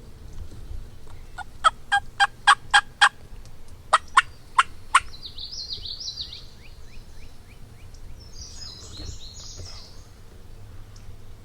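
Hunter's turkey call yelping: a quick run of about six sharp notes, then three more. A high, twittering run of short falling notes follows, and there is a shorter high jumble near the end.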